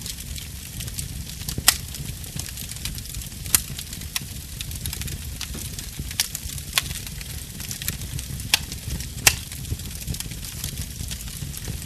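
Campfire burning with a steady hiss and low rumble, broken by sharp pops about once a second or two, the loudest near two seconds in and about nine seconds in.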